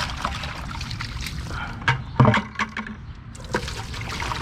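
Water running and trickling into a bucket as it is filled for rinsing hands, over a steady low hum, with a short loud sound, like a voice, about two seconds in.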